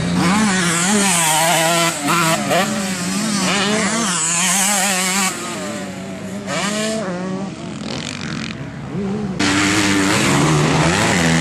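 Several motocross bikes racing past, their engines revving up and down as the riders work the throttle and shift. The engines fade somewhat midway, then come back loud suddenly about nine seconds in as bikes pass close again.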